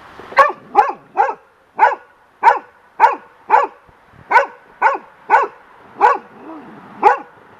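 Young golden retriever barking repeatedly at a large feather blowing in the wind, about two sharp barks a second with a slightly longer pause near the end.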